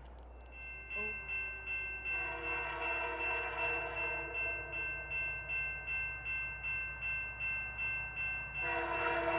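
A railroad grade-crossing bell rings, pulsing about two to three strokes a second. Near the end, the horn of an approaching Canadian Pacific freight locomotive (CP 2211) sounds a steady multi-note chord.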